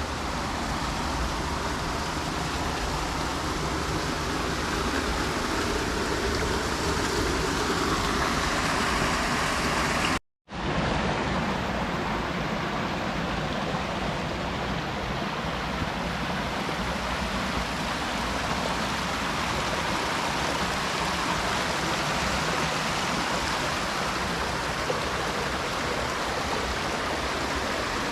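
Creek water rushing steadily. It breaks off into a half-second of silence about ten seconds in, then resumes.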